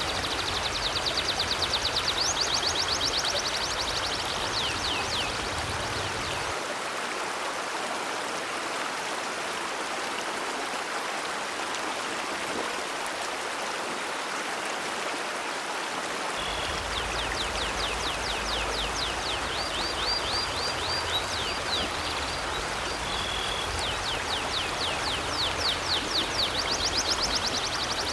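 River water flowing steadily. Series of quick, high chirping trills sound over it in the first few seconds and again through the second half.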